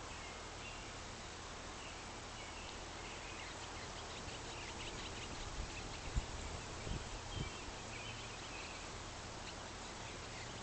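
Bluebirds giving faint, short chirps on and off over a steady background hiss, with a few low bumps about six to seven and a half seconds in.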